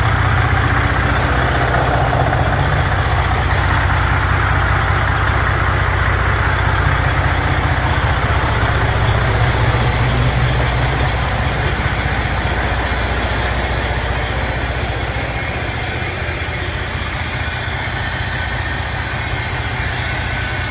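Detroit Diesel Series 60 14.0L inline-six turbodiesel in a semi truck running steadily at idle after an engine rebuild, with a thin steady high whistle over the low engine note. It gets slightly quieter about halfway through.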